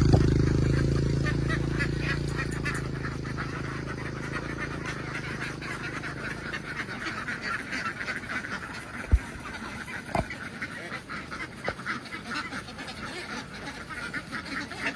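A large flock of domestic ducks quacking together in a dense, continuous chatter. A vehicle engine dies away over the first few seconds, and two sharp knocks about a second apart come a little past the middle.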